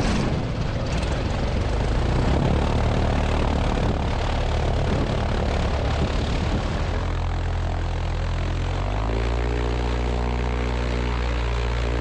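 Zenith STOL CH 750 Super Duty light aircraft's piston engine and propeller running at high power on departure. At first it is mostly a rushing noise; from about seven seconds in a steady engine tone comes through, and it shifts to a new steady pitch about nine seconds in.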